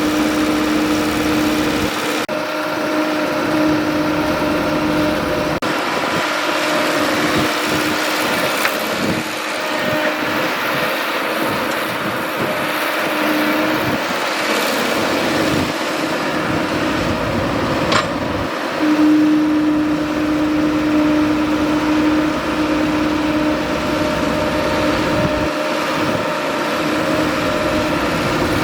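Excavator engine running steadily, with a steady whine that fades through the middle and comes back strong in the last third. A single sharp click about two-thirds of the way through.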